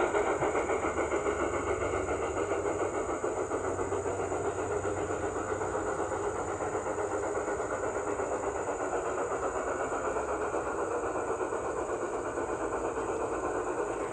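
Garden-scale model train running steadily, a fast, even mechanical chatter that keeps on without a break.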